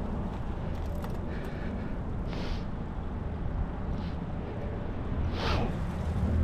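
Wind rumbling on the microphone while riding a bicycle, mixed with the noise of the tyres on the path, with two short hissing sounds about two and a half and five and a half seconds in.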